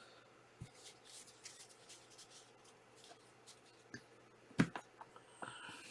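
Glossy chromium trading cards being handled and slid past one another: soft rustles and light clicks, with one sharper tap a little over two-thirds of the way through.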